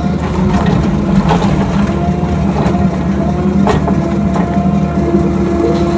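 Mini excavator's diesel engine running steadily under load, with hydraulic whine that shifts in pitch as the controls are worked and a sharp metallic clank a little past halfway. The operator says this machine is slow and has no power.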